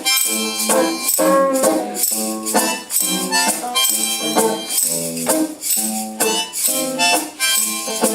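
Live acoustic music: the instrumental close of the song, rhythmic chords struck about twice a second.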